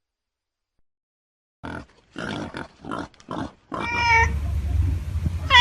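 About a second and a half of silence, then a quick series of about six short, rough animal grunts. After them comes a low steady rumble with one short pitched animal call.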